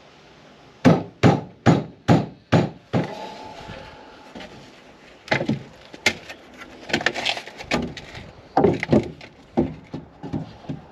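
Wood being struck: five quick, evenly spaced knocks about a second in, then a longer irregular run of wooden knocks and clatter.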